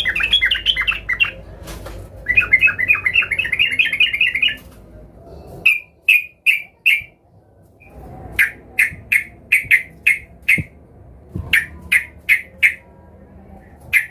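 Yellow-vented bulbul (trucukan) singing in an agitated, rival-seeking way: two fast chattering bursts in the first five seconds, then runs of four to six short clipped notes repeated to the end.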